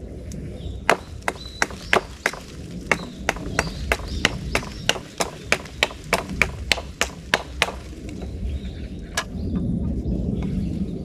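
Japanese nata chopping into wood with quick, sharp strikes, about three a second for several seconds, then stopping; one more strike near the end.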